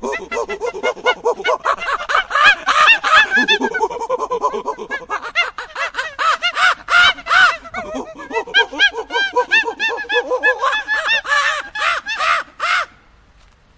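Birds calling: a rapid, dense stream of short overlapping calls that stops abruptly near the end.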